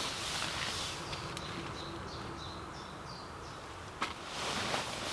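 Woodland birds singing: a bird repeats short, high notes a couple of times a second, over a soft outdoor hiss. A sharp click comes about four seconds in.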